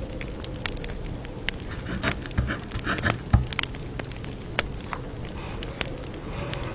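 Campfire crackling, with frequent sharp pops over a low steady rumble and one louder pop about three and a half seconds in.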